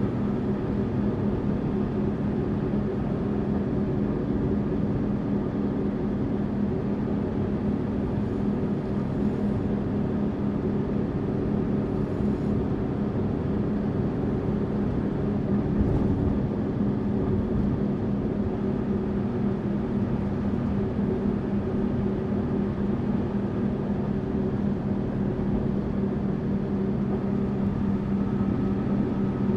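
Tour bus driving along, its engine a steady drone over road noise, with one light knock about halfway through.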